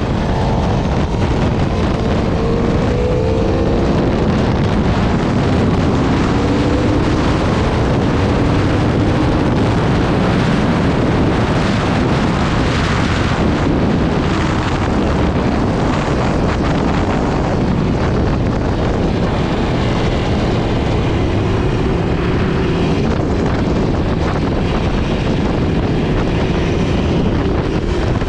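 Aprilia RSV4 RF's V4 engine at speed on track, its note climbing in pitch again and again as it accelerates. Heavy wind rush on the microphone is the loudest sound and mostly covers the engine.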